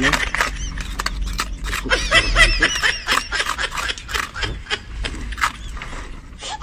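Hand tools chipping and scraping at concrete and gravel, with hammer blows and metal scraping: a quick, uneven run of sharp taps and scrapes, several a second.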